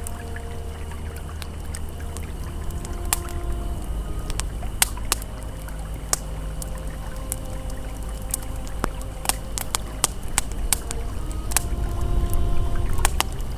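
Campfire crackling with frequent sharp pops over the steady rush and gurgle of a flowing river.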